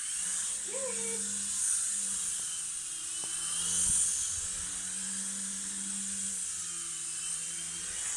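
Small electric motor and spinning rotors of a toy remote-control helicopter in flight: a steady high whine over a low hum, swelling in loudness a couple of times and dying away near the end.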